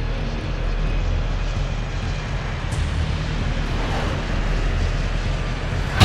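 Aircraft cabin noise, an even low rumble like an airliner in flight.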